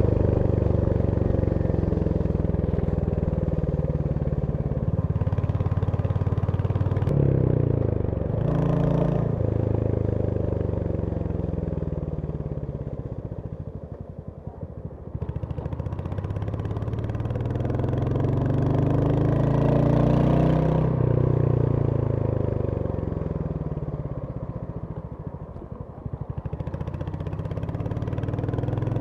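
Royal Enfield Hunter 350's single-cylinder engine running under way, its pitch rising and falling as the rider accelerates and eases off the throttle. It sinks low and quieter twice, about halfway through and near the end, then pulls up again.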